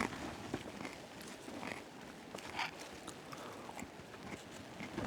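Tortilla chips crunching as they are bitten and chewed, a few scattered crunches over a low background hiss.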